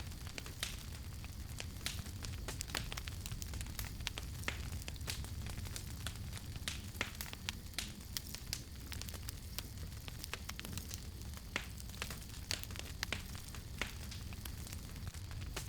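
Wood campfire crackling: frequent irregular sharp pops and snaps over a steady low rumble of burning.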